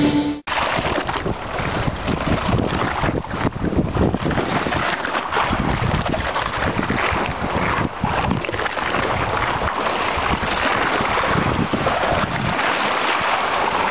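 Strong wind buffeting the microphone: a loud, steady rushing with a constant gusty flutter.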